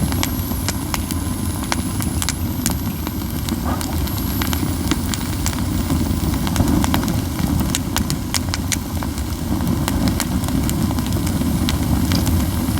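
A heap of pine cones burning in a fire pit, crackling and popping irregularly over a steady low rumble, with a thin high whistle coming and going.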